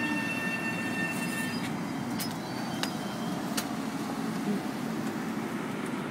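Long Island Rail Road electric commuter train at the platform: a steady rumble with a high whine that stops about a second and a half in, and a few sharp clicks.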